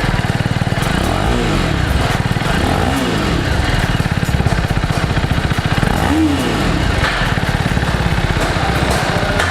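Motorcycle engine running steadily and being revved three times, each rev rising and then falling back.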